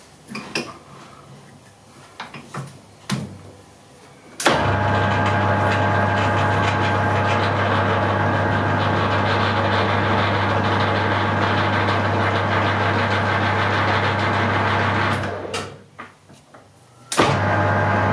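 Metal lathe motor (Hare and Forbes AL335) running at its slower speed with a steady hum. It switches on about four seconds in, runs for about eleven seconds, stops, and starts again near the end. Before it starts there are a few light clicks and knocks.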